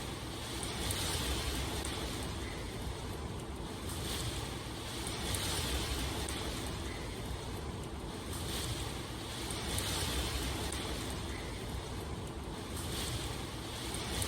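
Steady wash of rushing water noise that swells and eases about every four and a half seconds.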